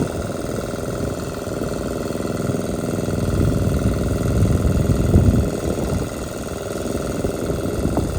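Generator engine running steadily, a constant noisy drone.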